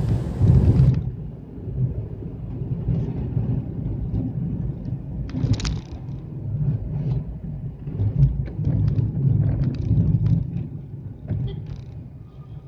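Low, steady road and engine rumble of a moving Hyundai Xcent car, with scattered light clicks and rattles. A hiss cuts off suddenly about a second in.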